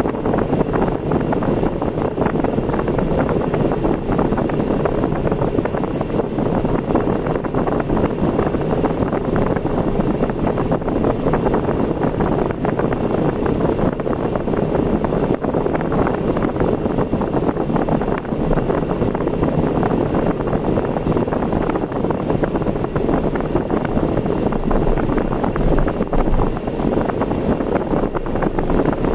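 Steady road and wind noise of a car being driven, unchanging throughout.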